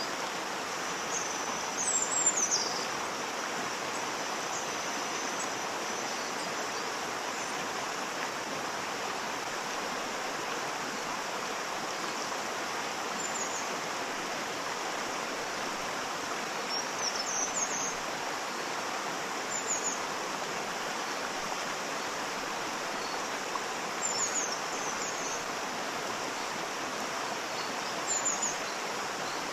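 Waterfall: a steady, even rush of falling water. Birds chirp briefly above it several times, loudest about two seconds in.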